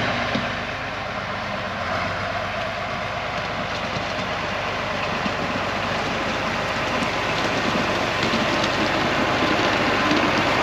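Farm machinery running steadily: an engine under a constant rattling clatter.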